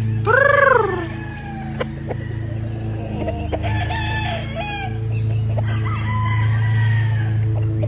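Roosters crowing: one loud, short crow about half a second in, then more crows from farther off a few seconds later, over a steady low hum.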